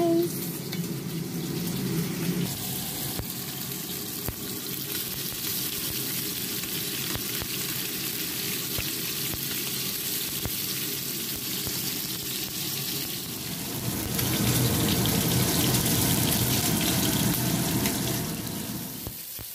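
Food frying in oil in a pan: a steady sizzle, louder for a few seconds near the end.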